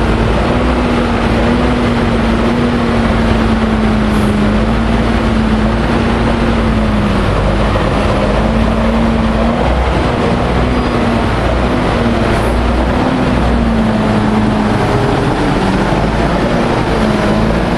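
MAN 32.281 tipper truck's diesel engine running steadily, a constant hum whose pitch wavers slightly.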